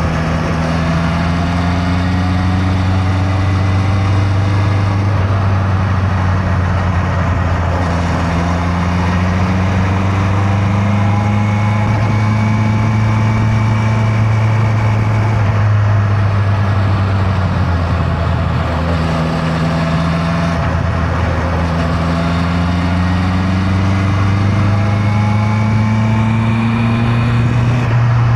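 Honda CB650R's inline-four engine running under way, its pitch climbing slowly and dropping back several times as the revs rise and fall, over steady wind and road rush.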